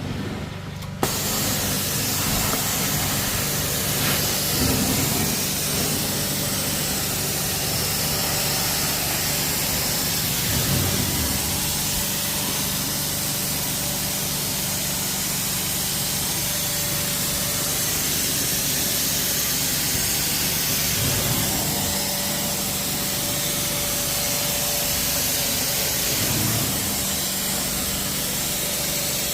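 Carpet extraction machine running, a steady loud hiss of spray and suction with a low motor hum underneath, switched on suddenly about a second in. It is cleaning a carpet soaked with urine.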